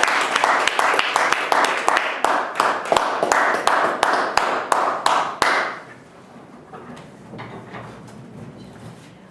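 Small audience applauding with many quick claps, dying away about five and a half seconds in, followed by faint knocks and shuffling.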